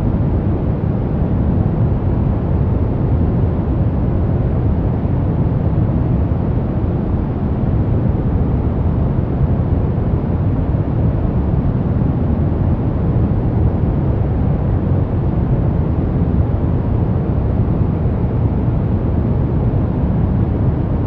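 Steady, unchanging noise sold as white noise, deep and even, with most of its weight in the low end rather than hiss.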